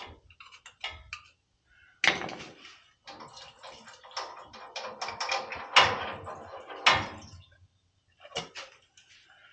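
Metal tools and parts clinking and clattering: scattered clicks at first, then about two seconds in a dense run of rapid knocks and rattles lasting some five seconds, with a few sharper strikes, and a couple of clicks near the end.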